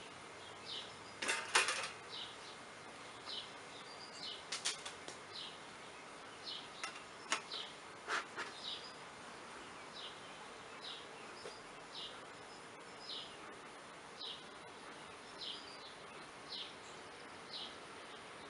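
Open beehive being worked by hand: a few sharp clicks and scrapes of frames and tools, the loudest about a second and a half in, over a faint steady bee hum. A short high chirp repeats about once a second throughout.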